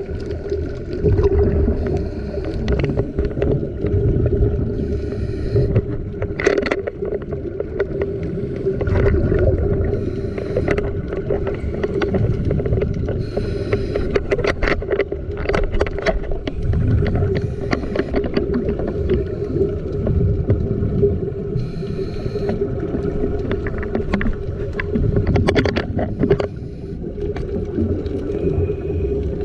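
Underwater sound on a scuba dive: a steady drone with a low rumble, broken by bursts of a diver's exhaled regulator bubbles and scattered clicks.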